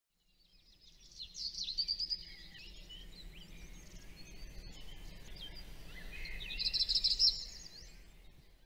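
Several birds singing and chirping, quick overlapping calls and sweeps that fade in about a second in, swell twice, and fade out near the end.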